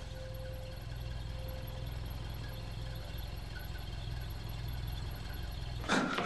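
Car engine idling with a steady low rumble. It stops about six seconds in, as a sharp, loud noise breaks in.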